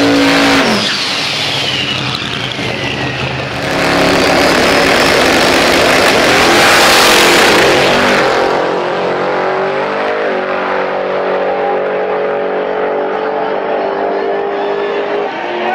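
Twin-turbocharged 692 ci big-block V8 of a 1957 Chevy drag car running hard on a pass. The sound swells to its loudest around seven seconds in, then settles into a steadier drone.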